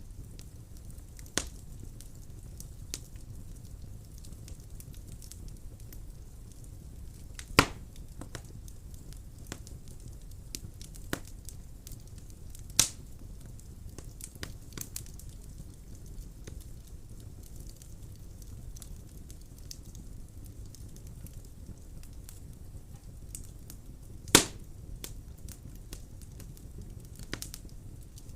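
Wood fire burning in a fireplace: a low steady rumble of flames with sparse crackles, and about three loud sharp pops from the burning wood.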